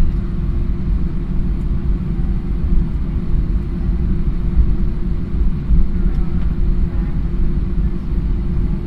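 Steady low rumble of airport terminal background noise, with faint distant voices.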